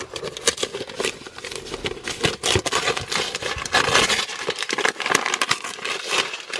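Gift packaging and small toy pieces being handled: a busy run of crinkling and many small clicks.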